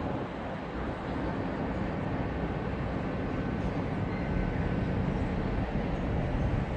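A train running, a steady rumble throughout.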